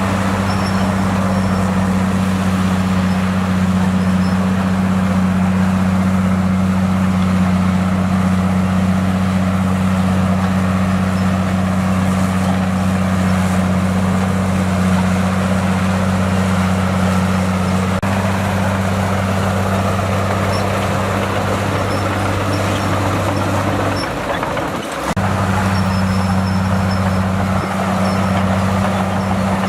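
Bulldozer's diesel engine running at a steady, even speed, its low drone holding one pitch; near the end the note drops out for about a second, then comes back.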